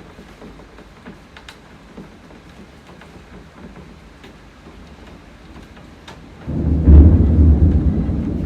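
Steady rain with scattered drips, then about six and a half seconds in, thunder breaks into a loud, deep rumble that slowly fades.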